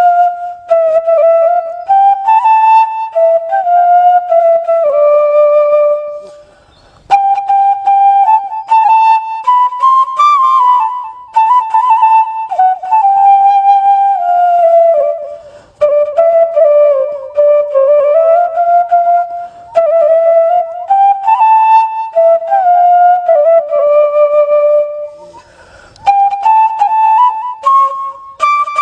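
Background music: a solo flute-like wind instrument playing a slow melody of held and gliding notes, with short breaks between phrases.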